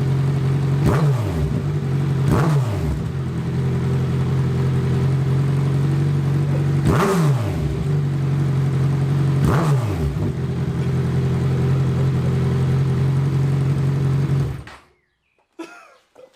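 Kawasaki Z1000 inline-four running through a newly fitted Black Widow Exhaust header, idling steadily and blipped four times to a quick rev that falls straight back to idle. The sound cuts off suddenly near the end.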